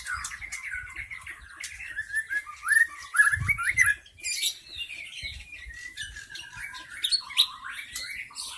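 White-rumped shama singing a fast, unbroken run of chirps and twittering phrases, the wild lure song used to draw in other shamas. There is a brief low thump a little over three seconds in.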